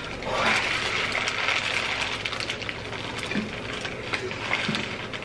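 Close-up eating of a spicy fried chicken sandwich: biting and chewing, a steady crackle with many small clicks.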